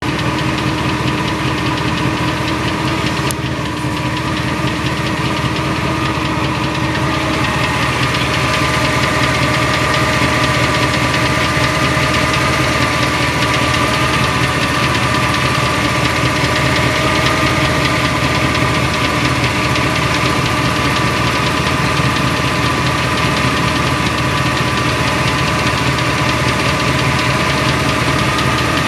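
Chevrolet Vortec 8100 (8.1 L V8) running steadily with a fast, even ticking from the bellhousing area between the engine and the Allison 1000 transmission. The owner has ruled out a cracked flexplate: the flexplate, torque converter and bolts are new, and the tick is unchanged.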